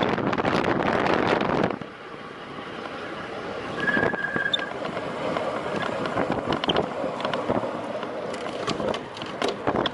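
Wind buffeting the microphone, which cuts off sharply about two seconds in. After it comes quieter outdoor road noise with scattered clicks and a short high beep near the middle.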